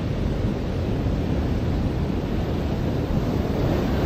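Ocean surf washing onto a beach: a steady, rumbling wash with no distinct breaks.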